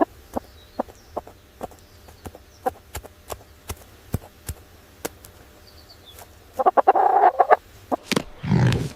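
A bird clucking over scattered sharp taps, like pecking, about once or twice a second. A burst of calling comes about seven seconds in, and a louder, deeper call follows near the end.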